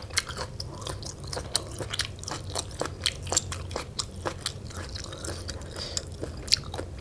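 Close-miked mouth sounds of someone chewing spicy Lao pounded rice-noodle salad: many short wet clicks and smacks, with a steady low hum underneath.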